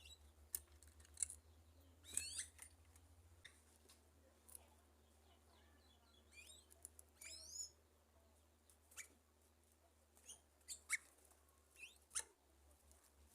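Sanhaço tanagers giving faint, scattered short chirps and squeaky calls, some sliding in pitch, around a fruit feeder.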